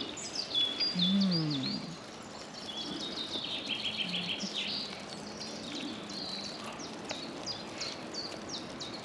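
Songbirds singing and chirping outdoors, with many short high notes repeated throughout. A brief low falling hum comes about a second in.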